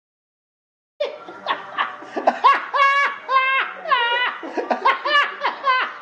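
A young child laughing hysterically, starting about a second in: a rapid string of high-pitched 'ha's, about three a second, each falling in pitch.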